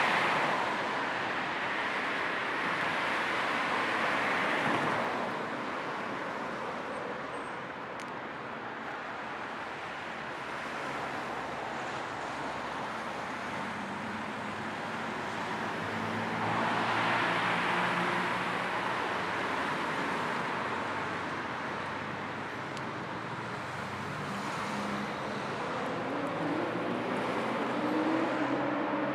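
Car driving: steady road and tyre noise with a low engine hum. The noise swells near the start and again about halfway through. Near the end the engine pitch rises as the car accelerates.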